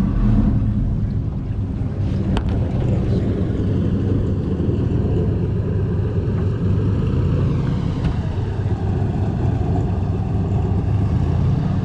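Airboat engine and propeller running steadily, with wind on the microphone and a single short click about two seconds in.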